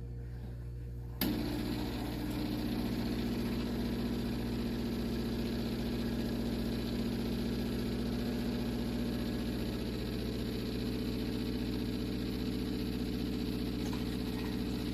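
De'Longhi TrueBrew CAM51035M coffee maker running a bold espresso brew cycle: its internal motor cuts in suddenly about a second in and runs with a steady hum over a low constant drone.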